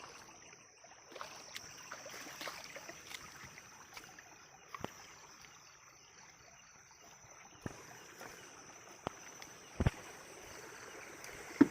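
Shallow water sloshing and trickling as someone wades, with a few sharp splashes or knocks, the loudest near the end, over a steady high-pitched tone.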